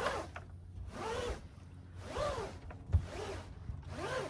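Rope being hauled hand over hand through a block, likely the spinnaker halyard going up: each pull gives a short zipping whirr that rises and falls in pitch, about once a second, five pulls in a row.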